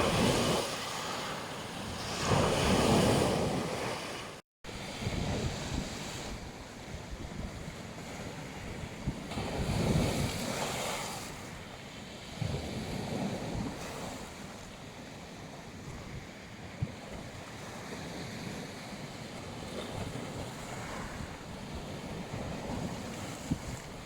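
Sea waves breaking and washing on a beach, swelling every few seconds, with wind buffeting the microphone. The sound cuts out for a moment about four and a half seconds in.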